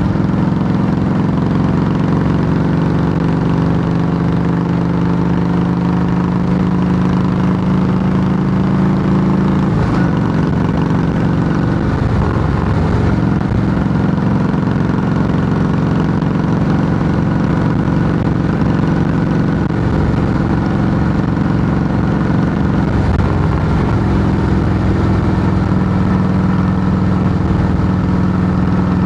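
2008 Harley-Davidson Softail Heritage Classic's Twin Cam 96 V-twin running through Samson fishtail true-dual pipes, loud and steady. Its note wavers in pitch for a stretch in the middle, then settles steady again near the end.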